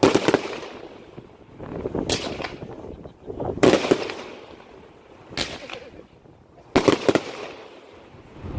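Fireworks display: about five loud bangs of bursting fireworks, one every second or two, some in close pairs, each trailing off in a short echo.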